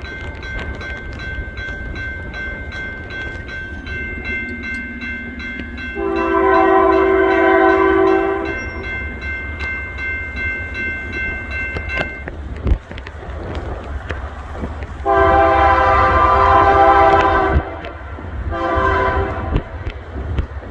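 Freight train's diesel locomotive passing with a steady rumble, its air horn blowing a long blast about six seconds in, another long blast at about fifteen seconds, and a short one near the end. A steady high-pitched ringing tone runs through the first half.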